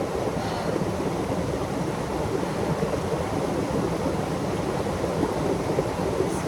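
Creek water rushing steadily, a loud, even wash that drowns out voices.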